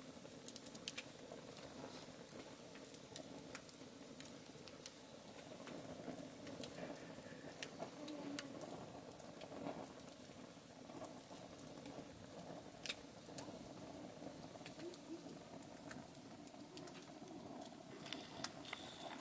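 Wood campfire crackling: irregular sharp pops and snaps over a soft steady rush.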